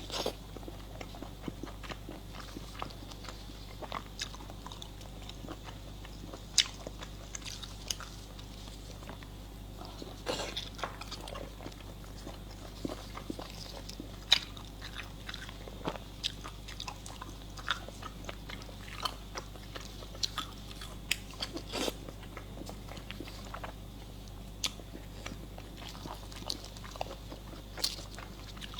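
A person chewing and biting food close to the microphone, with irregular crunches and sharp mouth clicks throughout.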